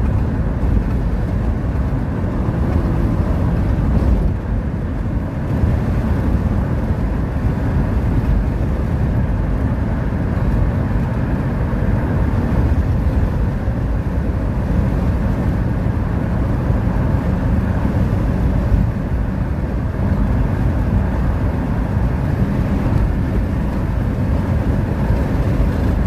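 Steady low engine drone and rumble heard from inside a moving vehicle's cabin, even throughout.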